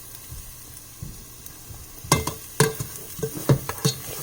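Minced garlic sizzling faintly in a pan, then from about two seconds in a utensil stirring it, knocking and clinking against the pan several times with a brief ring.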